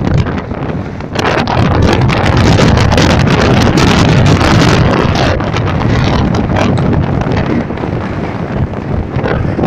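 Strong wind buffeting the microphone: loud, gusting rush of air that swells and dips, heaviest in the low end.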